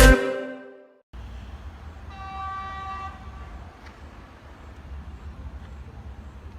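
Music cutting off in the first second, then a train horn sounding once for about a second over a steady low rumble.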